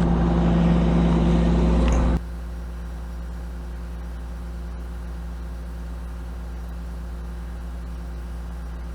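Kobelco SK250 LC excavator's diesel engine running steadily. It is louder for the first two seconds, then drops suddenly to a lower, even running sound.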